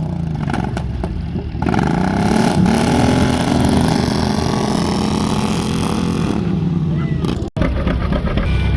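A vehicle engine running, its pitch climbing about two seconds in and then slowly sinking, as when an engine revs or a vehicle passes. There is a brief break in the sound near the end.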